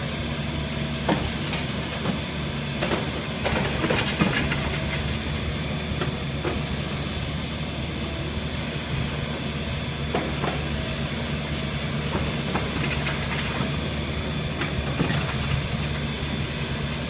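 A 22-ton excavator's diesel engine running steadily while driving a Simex CBE 30 crusher bucket, with irregular cracks and knocks of sandstone being crushed, most frequent a few seconds in.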